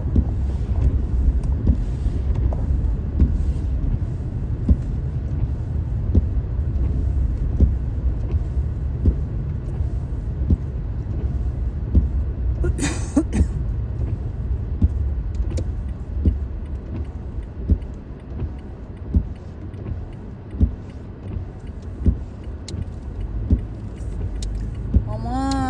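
Car driving through snow, heard inside the cabin: a steady low road and engine rumble with a soft knock repeating very evenly about every one and a half seconds, and a brief hiss about halfway through.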